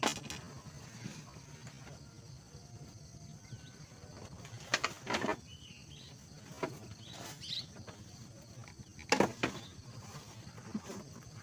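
A handful of short, sharp knocks and clicks, about six, scattered over low background noise.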